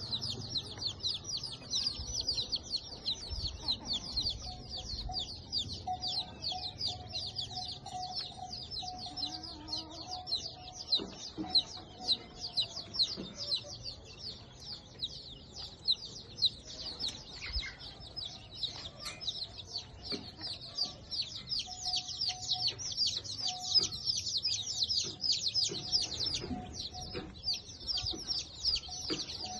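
Birds chirping rapidly and without pause in a dense, high chorus, with scattered lower chicken-like clucks beneath.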